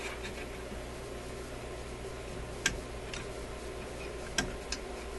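Steady low electrical hum and buzz on the workshop microphone, with three sharp clicks: one about halfway through and two close together near the end.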